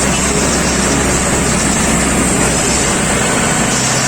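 Mahindra 415 DI SP Plus tractor's diesel engine running steadily with a constant low hum.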